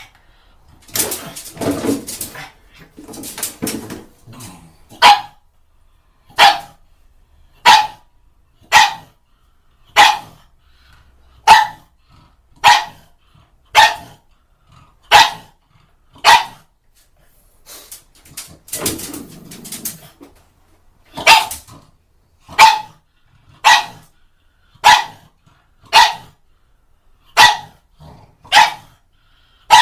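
A pug barking in single sharp, loud barks, roughly one a second, with two stretches of rough growling, one near the start and one about two-thirds of the way through.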